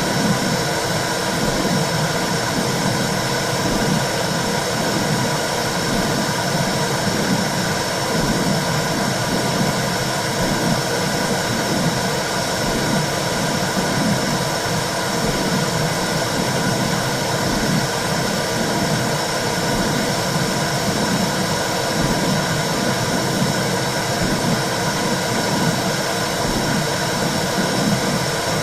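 Womb-sound recording for calming a baby: a steady rushing noise with a low, rhythmic whooshing pulse beneath it, like blood flow heard inside the uterus.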